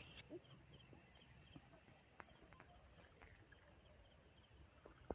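Near silence: a faint steady high-pitched insect drone, with a few faint scattered clicks and knocks.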